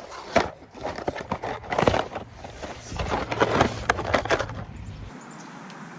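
Irregular clattering, clicking and rustling of things being handled close to the microphone, with several sharp knocks. About five seconds in it gives way to a steady faint background hiss.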